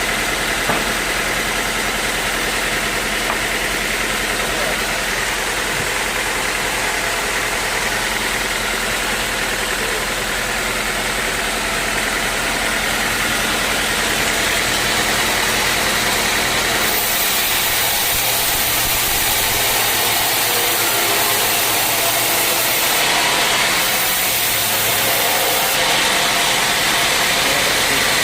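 Sawmill machinery running steadily, an engine-driven drone with a constant hum; about two-thirds of the way through the lowest hum drops away and the sound turns brighter and hissier.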